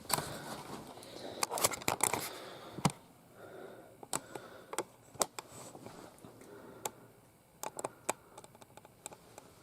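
Handling noise from small plastic toy figures being picked up and set down: a rustle with a run of sharp clicks in the first few seconds, then scattered single clicks and taps.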